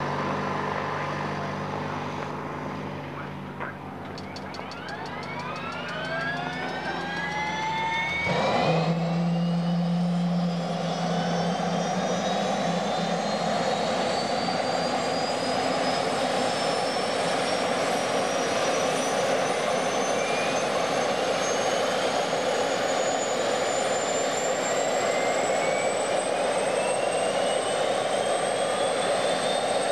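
MBB Bo 105 helicopter's Allison turboshaft engine starting: a whine that rises steadily in pitch as the turbine spools up. A sudden burst comes about eight and a half seconds in, after which a steady rushing noise runs under the still-climbing whine.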